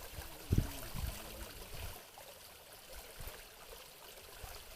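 Steady trickle of running water, with a low thump about half a second in.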